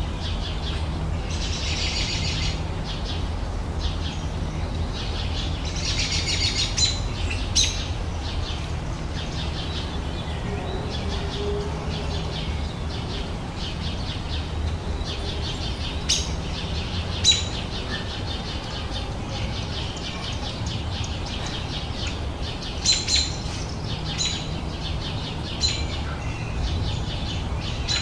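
Small songbirds singing: rapid trilled phrases in the first few seconds and again around six seconds in, then sharp single chirps scattered through. A steady low hum runs underneath.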